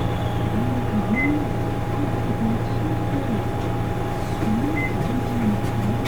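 Steady running hum of an Isuzu Erga Mio city bus's diesel engine, heard from inside the cabin, with a thin steady whine over it and faint low voices in the background.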